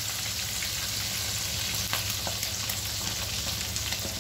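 Chicken franks sizzling steadily as they fry in oil in an aluminium pan, with a few faint pops and a steady low hum underneath.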